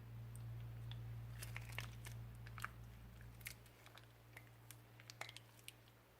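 Slime being squeezed and worked by hand, giving a scatter of irregular, faint crackling clicks over a steady low hum.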